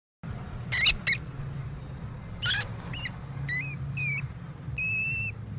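A small animal's high-pitched squeaking calls: two sharp squeaks about a second in, then a string of short hooked calls, the last one held for about half a second near the end, over a steady low hum.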